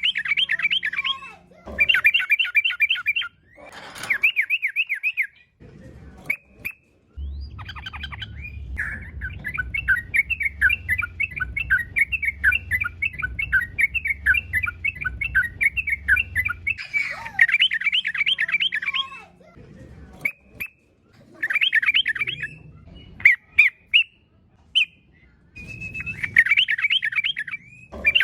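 Yellow-vented bulbul (trucukan) singing loudly: bursts of quick, bubbly chattering phrases, with one long unbroken run of song through the middle and shorter bursts either side. A low rumble sits under the long run.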